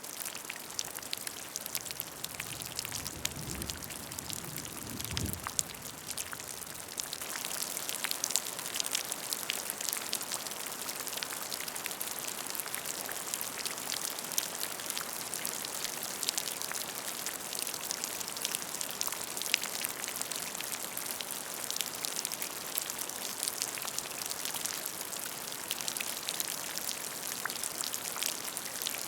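Rain falling into a puddle of water: a steady patter with many close individual drop splashes. A brief low rumble sounds a few seconds in.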